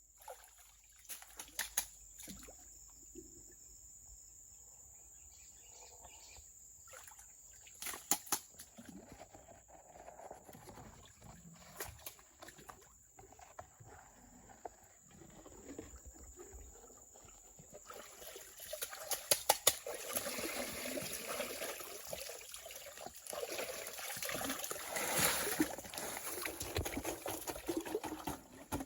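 Water trickling and sloshing with scattered clicks and knocks, growing louder and busier about two-thirds of the way in, over a steady high insect drone.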